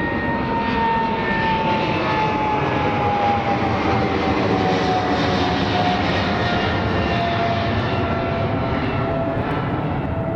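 Boeing 777's GE90 turbofan engines running as the jet passes, a steady roar with a strong whine that slowly falls in pitch as it goes by.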